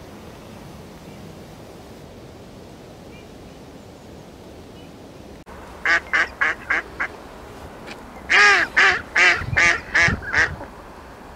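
Waterfowl calling in two quick runs of short repeated calls: about five, then after a short pause about six louder ones, following a few seconds of faint background hiss.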